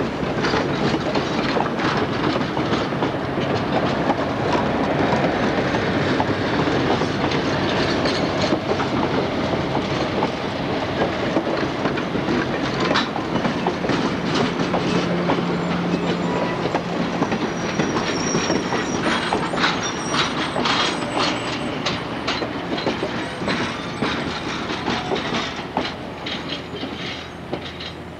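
Passenger train coaches rolling past close by, their wheels clacking over the rail joints, with a few brief high wheel squeals about two-thirds of the way through. The sound eases off near the end as the last cars go by.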